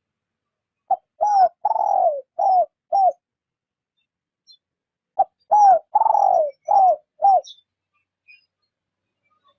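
Decoy spotted dove cooing in two phrases of about five coos each, roughly four seconds apart. Each phrase has a longer coo in the middle that falls in pitch.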